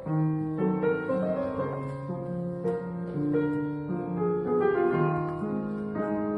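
Solo piano playing a slow, calm piece of sustained notes and chords, changing about once or twice a second.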